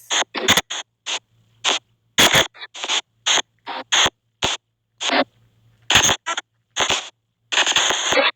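SP White Noise box spirit-box app sweeping on a phone, set to mode 7 with NR7 noise reduction: short, choppy bursts of hiss and garbled sound fragments, about two to three a second at uneven spacing, each cut off sharply by silence.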